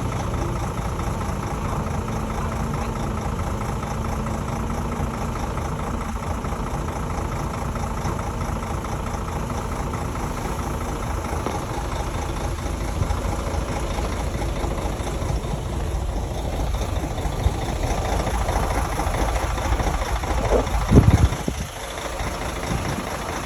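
Heavy diesel engine of a Shantui crawler bulldozer running steadily, with a brief loud burst near the end.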